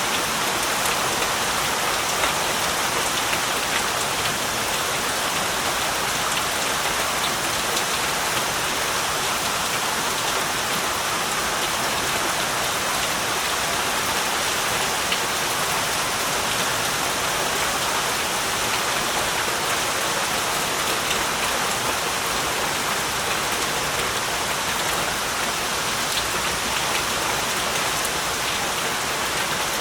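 Heavy rain falling steadily, a dense even hiss of drops with fine individual drip ticks on surfaces.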